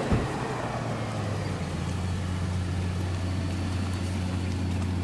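Lexus LFA's 4.8-litre V10 engine idling steadily, with a brief thump just after the start.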